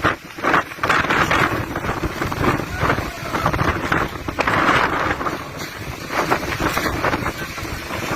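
Storm wind gusting and buffeting the microphone in uneven surges.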